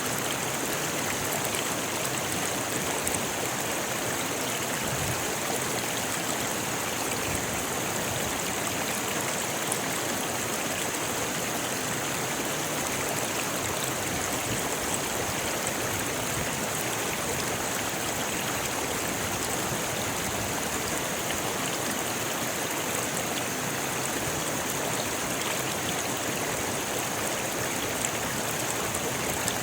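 Rocky river rushing and splashing over stones, a steady, even flow of water.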